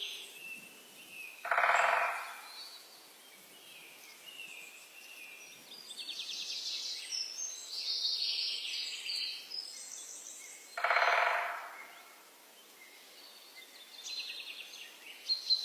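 Several birds singing in repeated high, trilled phrases. Two louder, lower calls, each about a second long, come about one and a half seconds in and again about eleven seconds in.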